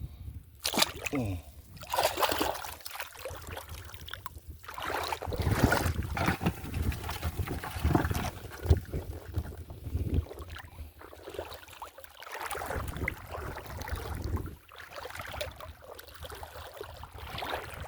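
Shallow sea water splashing and sloshing in irregular swishes, over a steady low rumble.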